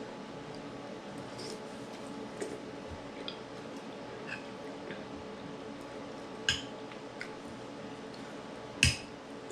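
Spoons clinking now and then against soup bowls during a meal, with a louder clink about six and a half seconds in and another near the end, over a faint steady hum.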